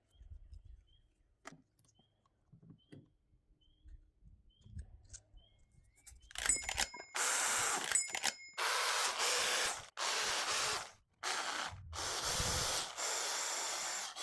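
Corded electric drill spinning a small abrasive sanding disc against the surface of an aluminum wheel to strip its old finish. It runs in several bursts of about a second each, with short pauses between, starting about six seconds in after a few faint handling knocks.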